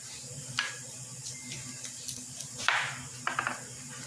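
Cookware being handled at the stove: a few light clicks, then a short rush of noise about two and a half seconds in, followed by a couple of brief scraping strokes. A steady low hum runs underneath.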